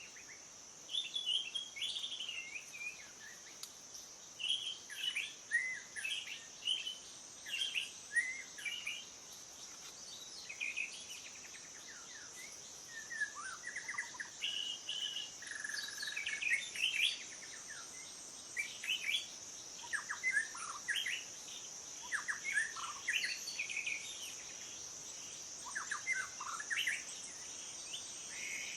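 Songbirds chirping and trilling in quick, overlapping short phrases, over a steady high-pitched insect drone that does not let up.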